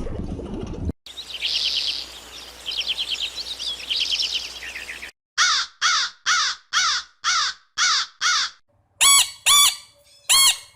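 Bird calls: first a few seconds of rapid, high chirping trills, then a series of eight harsh caws about two a second, and after a short pause three more caws.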